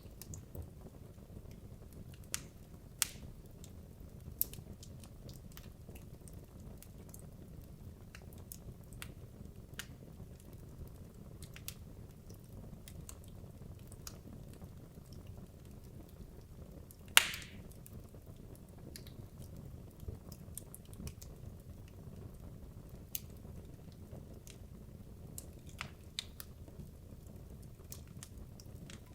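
Wood logs burning in a fireplace: a low, steady rumble of flame with scattered sharp crackles and pops. The loudest pop comes about 17 seconds in.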